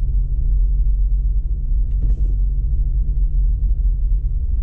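Jeep Wrangler driving on a snowy off-road trail: a steady low rumble of engine and tyres, with a brief hiss about two seconds in.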